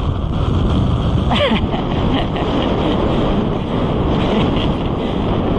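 Strong wind buffeting the microphone, a steady loud low rumble. About a second in, a short pitched sound glides downward.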